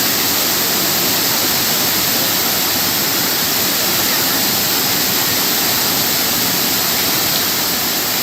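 Waterfall water rushing: a loud, steady noise that does not change.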